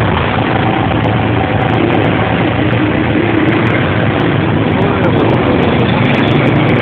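A motor vehicle engine running steadily under a loud, even rushing noise.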